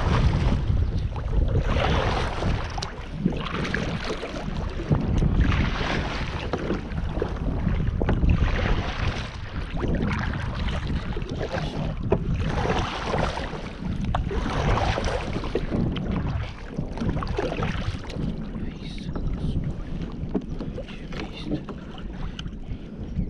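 Water sloshing and splashing around a kayak, in swells every couple of seconds, over a steady low rumble of wind on the microphone.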